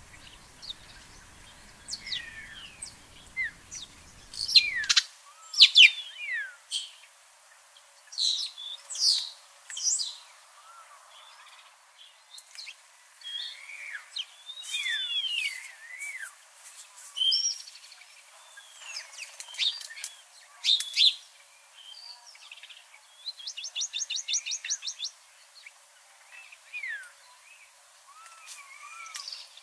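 Birds chirping and singing: a mix of short chirps and whistled notes that slide up and down, with a fast even trill of about eight notes a second near the end.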